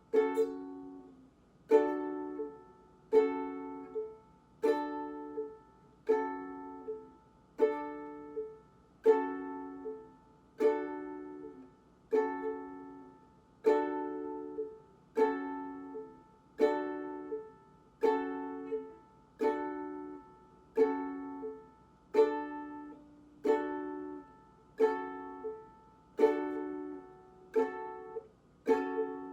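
Ukulele strummed one chord at a time, about one strum every second and a half, each left to ring and fade. It is a slow practice drill switching back and forth between a D chord and a G-flat minor chord.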